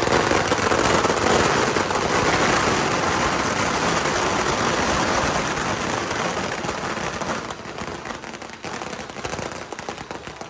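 A string of firecrackers going off in a dense, continuous crackle, thinning to scattered pops over the last few seconds.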